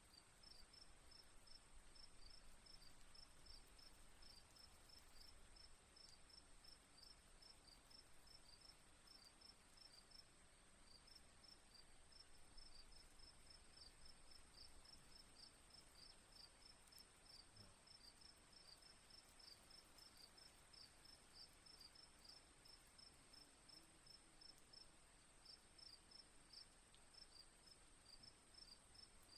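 Faint crickets chirping in quick repeated pulses, pausing briefly twice, over a steady high-pitched whine.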